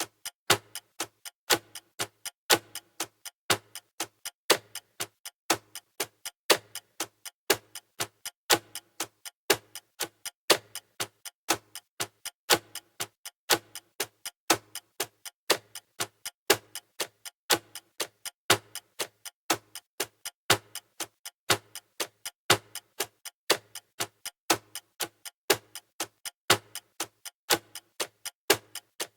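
Clock-style ticking sound effect of a countdown timer: a steady rhythm of sharp ticks, several a second, with a louder tick about once a second.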